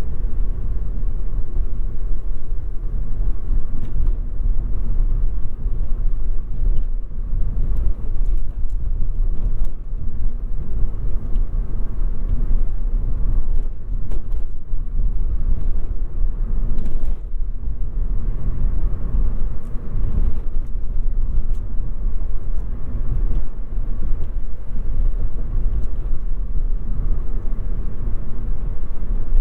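Toyota Yaris 1.5 Hybrid driving over a bumpy road: a steady, deep road and tyre rumble with a few faint ticks.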